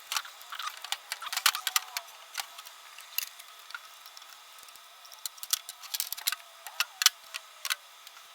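Irregular sharp metallic clicks and light clinks of hand tools and small parts while a two-barrel Holley carburetor is taken apart, some coming in quick clusters.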